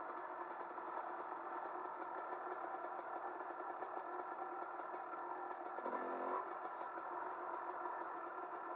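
Off-road motorcycle engine running steadily as the bike is ridden over a rocky dirt track, heard from on the bike. It grows briefly louder about six seconds in.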